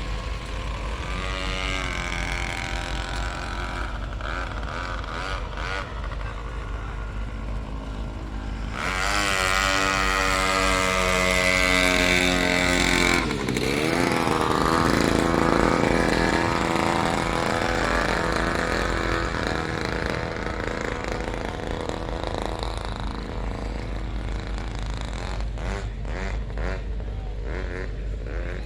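Vehicle engine accelerating: its pitch climbs for about four seconds, drops sharply as it shifts gear, then climbs again. A steady low engine rumble runs underneath throughout.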